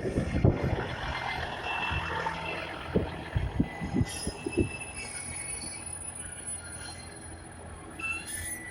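KiHa 110 diesel railcar rolling slowly into a station: a few clacks of the wheels over rail joints, then a thin, high-pitched brake squeal from about four seconds in, rising again near the end as it slows toward a stop.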